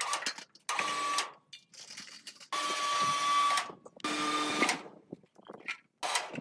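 A small power tool's motor whirring in short bursts, about five times, each under a second long with a steady whine, starting and stopping abruptly.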